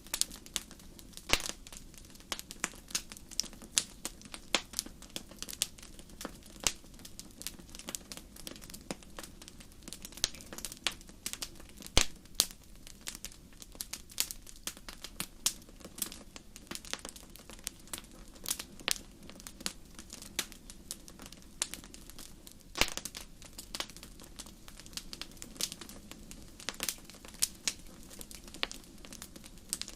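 Wood fire burning in a fireplace: irregular crackles and pops over a soft steady hiss, a sharper pop about twelve seconds in.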